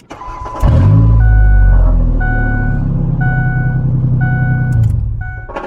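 A 2004 Ford Explorer's engine starts and runs with no muffler fitted, a loud, deep exhaust drone, then shuts off just before the end. The vehicle's warning chime beeps steadily about once a second throughout.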